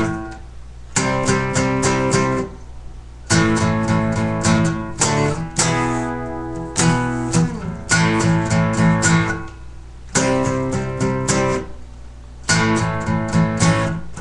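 Guitar strumming power chords in short bursts of quick strokes, a new chord about every two seconds, with brief gaps between the bursts.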